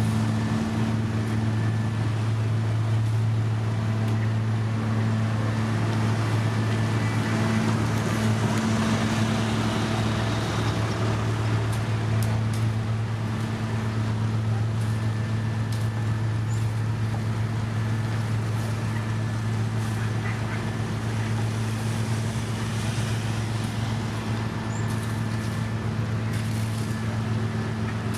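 Diesel engine of heavy road-construction machinery running at a steady speed, a constant low note that does not change.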